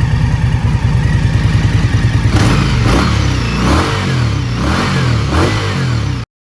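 2021 Indian Scout Bobber's V-twin engine idling with an even pulse, then revved in about five quick throttle blips from a little over two seconds in. The sound stops abruptly near the end.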